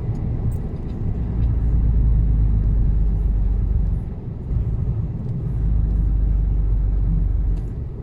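Mercedes-Benz Actros truck's diesel engine running, a low rumble heard from inside the cab that swells louder twice.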